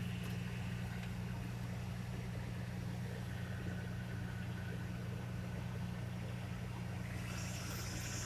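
An engine idling steadily with a low, even hum; a faint high hiss comes in near the end.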